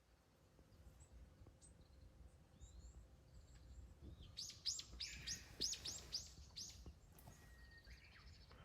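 A small songbird singing: a quick run of about eight bright descending notes in the middle, with a few faint chirps before and after.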